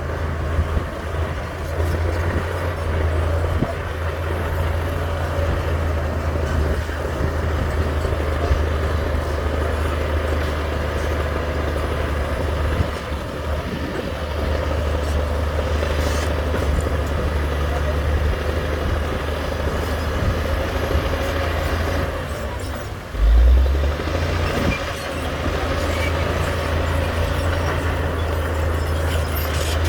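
Heavy diesel earthmoving machinery running steadily with a deep, even engine drone. There is a brief louder surge of low rumble about twenty-three seconds in.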